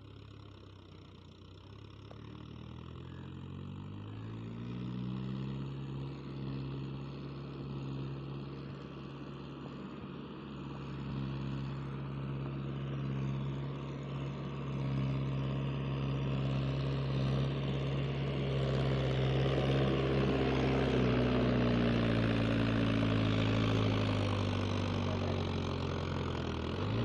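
Heavy diesel engine running steadily at a fairly constant pitch, growing gradually louder.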